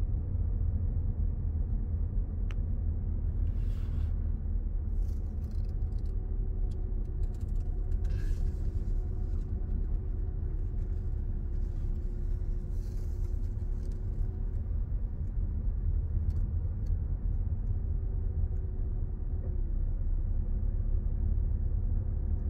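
Car being driven, heard from inside the cabin: a steady low rumble of road and engine noise with a faint, even hum, and a few small ticks.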